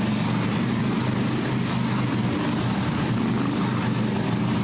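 Several Harley-Davidson Police Special V-twin motorcycles running together in a steady low drone as the team rides in formation.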